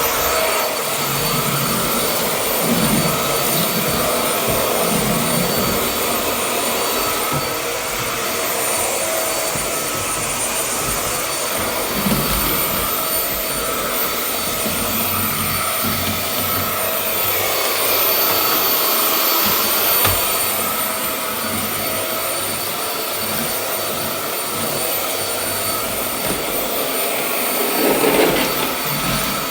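Hoover Air Hard Floor vacuum cleaner running continuously while sucking up drywall dust: a steady rush of air with a high motor whine on top.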